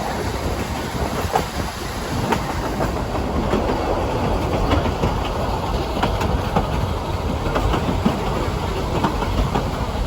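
Narrow-gauge train running along the track: a steady rumble with frequent, irregular clicks and knocks from the wheels on the rails.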